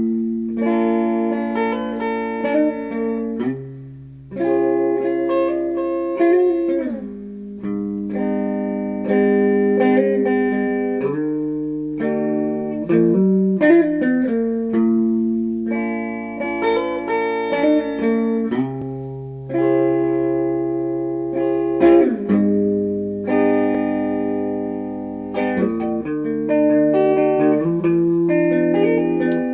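Background music: a plucked guitar playing chords and melody notes, with a fresh note or chord struck about every second.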